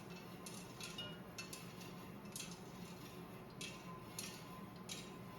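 Coffee beans crackling in a home roaster: sharp, irregular cracks, a few per second, over a steady low hum.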